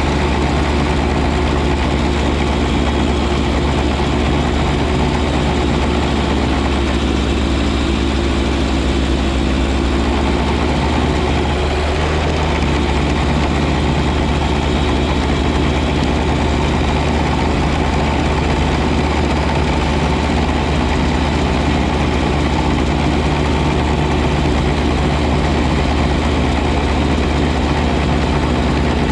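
John Deere 1025R compact tractor's three-cylinder diesel engine running steadily, with a slight change in its tone about twelve seconds in.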